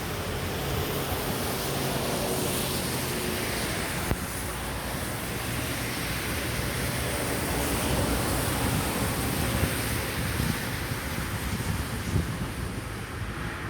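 Jet engine noise of a Boeing 767-300ER on final approach: a steady, loud rushing sound with a low drone underneath, its high hiss thinning out near the end.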